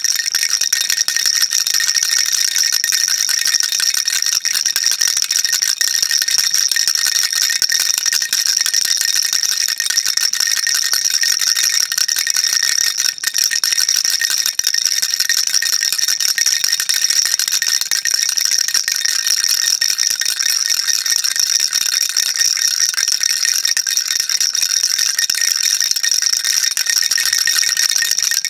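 Baby rattle shaken continuously, a dense steady stream of fast, high, rattling clicks without pause.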